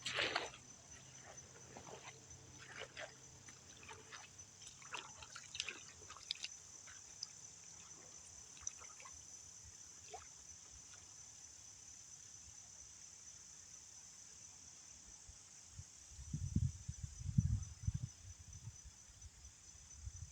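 Wading through a shallow creek, with water splashing and trickling around the legs in irregular strokes for the first several seconds, over a steady high drone of insects. Near the end come a few low rumbling thuds.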